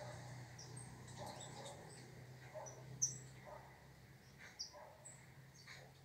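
Small birds giving short, high chirps, scattered and faint, the sharpest one about halfway through, over a low steady hum.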